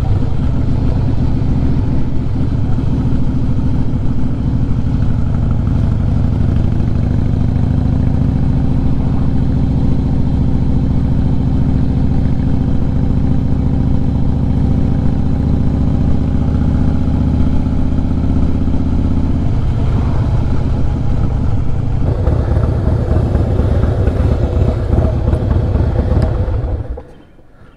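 A 2016 Harley-Davidson Fatboy S's Screaming Eagle 110 V-twin with Vance & Hines Big Radius exhaust running steadily under way, heard through a helmet-mounted microphone. The engine note changes about two-thirds through and the sound cuts off abruptly near the end.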